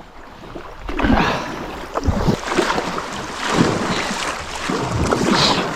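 Kayak paddling on a sit-on-top kayak: repeated swishes and splashes of the paddle blades in the water, roughly one a second, some with a dull low knock.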